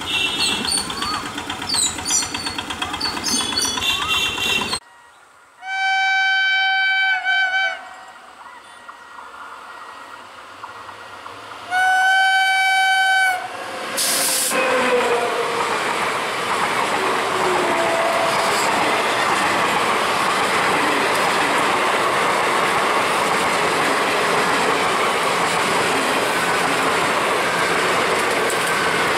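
Street noise at a railway level crossing with high chirps, then after a cut an Indian Railways electric locomotive sounds its horn twice, two long steady blasts about six seconds apart. From about fourteen seconds in, the loud steady rush and wheel clatter of the locomotive and its passenger coaches passing close by at speed.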